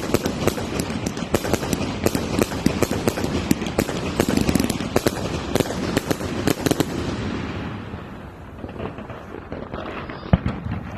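Fireworks going off in a dense, rapid crackling barrage of many bangs a second. About seven seconds in it thins out and quietens to scattered pops, with one louder bang near the end.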